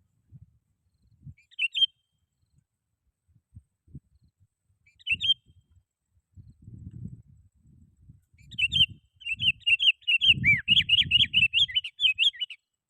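Sooty-headed bulbul calling: two short chirps a few seconds apart, then a fast run of chattering notes through the last four seconds. Low thumps sound beneath the calls, heaviest during the final run.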